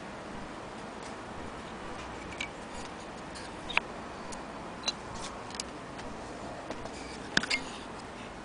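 A few sharp, irregular clicks and light taps, as from the metal parts of an antique Willcox & Gibbs sewing machine being handled, over a steady background hiss; the loudest clicks come near the middle and a double click near the end.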